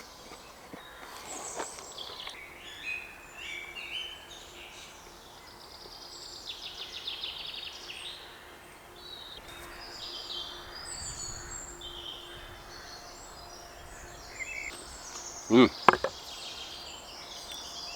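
Woodland birdsong: several small birds singing and chirping, including a rapid trill. About three-quarters of the way through there is one short, loud voice-like sound, the loudest thing heard.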